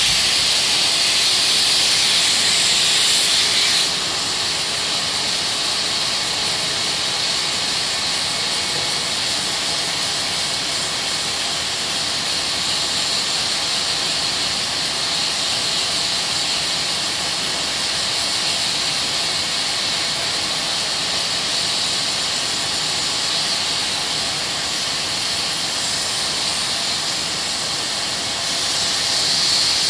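Steady sanding hiss of sandpaper working body filler during dry sanding. It is a little louder for the first few seconds and again near the end.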